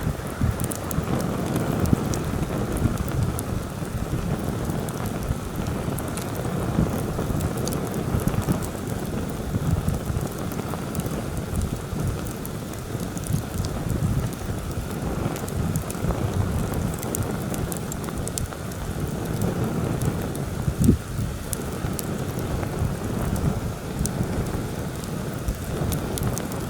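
Heavy wind gusting over the microphone in a constant low rumble, with a campfire crackling in scattered sharp pops through it.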